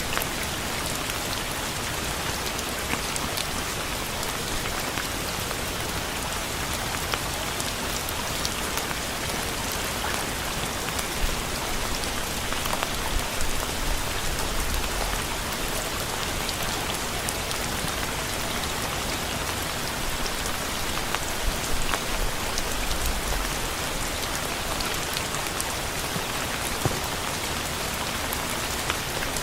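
Steady rain falling on a surface: a dense even hiss with scattered individual drops ticking through it.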